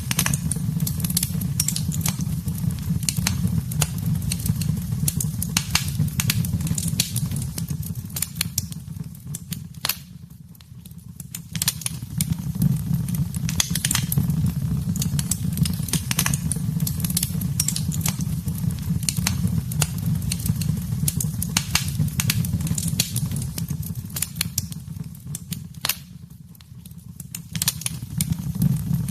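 Wood fire in a fireplace crackling and popping in quick, irregular snaps over a steady low rumble of the flames. The crackling thins and quietens briefly about ten seconds in and again near the end.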